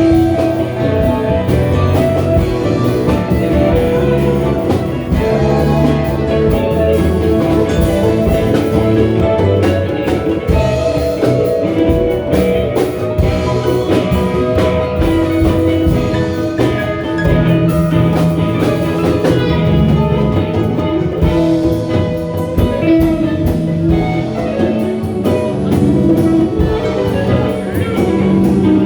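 A live band playing, with guitar and drums carrying a steady groove and no clear vocal line.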